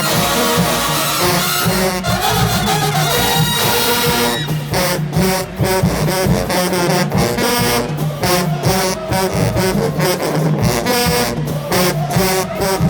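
Marching band playing loudly, brass section holding full chords; from about four seconds in, sharp drum hits punctuate the music in a steady beat.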